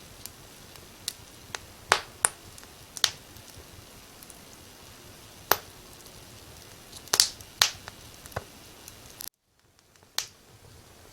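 Wood fire crackling: irregular sharp pops and snaps over a soft steady hiss. The sound cuts out briefly a little past nine seconds, then the hiss comes back fainter with another pop.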